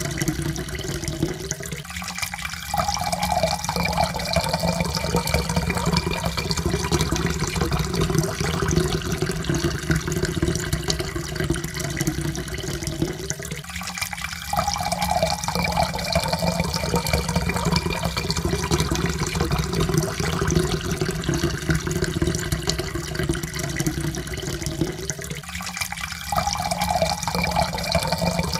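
Water pouring steadily into a cup, with a tone that rises slowly as the cup fills. The pour breaks off briefly and starts again about every 12 seconds, three times.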